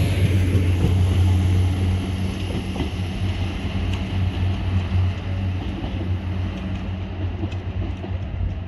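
Diesel multiple unit train pulling away, its engine a steady low drone with wheel and rail rumble, fading slowly as it draws off into the distance.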